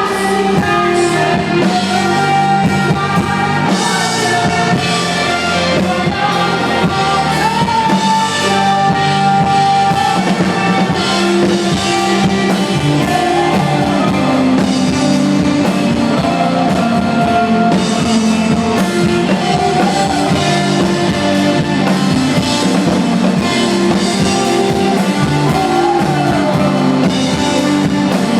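Indie rock band playing live: a sung melody over drum kit, guitar and bass.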